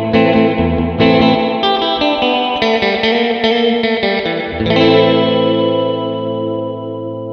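Electric guitar played surf-style through a Mosky spring reverb pedal, its drippy reverb simulated with a slapback-like delay. A quick run of chords, then one chord left ringing and slowly fading from about two-thirds in.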